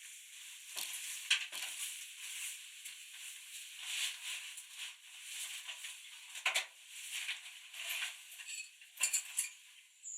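Footsteps crunching through fresh snow, an uneven swell of crackling roughly once a second with a few sharper crunches.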